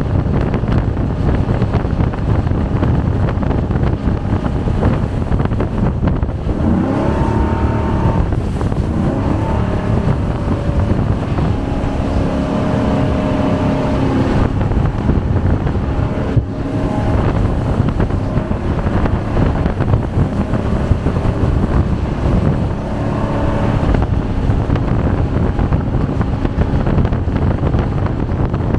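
Jet boat running at speed on a river, its engine and water jet a steady loud rush with wind buffeting the microphone; the engine pitch rises and falls a few times.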